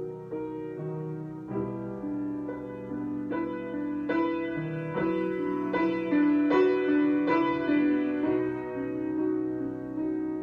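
Solo piano improvising slow, sustained chords with ringing notes, growing louder toward the middle and easing off near the end.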